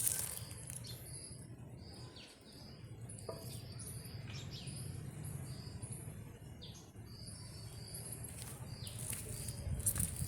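Outdoor ambience: a small animal gives short high chirps, about two a second, over a low rumble. Near the end there are some louder clicks.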